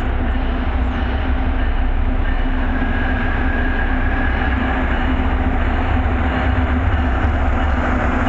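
MBTA commuter rail diesel train running close by: a steady, loud, deep rumble with a few faint steady whines above it.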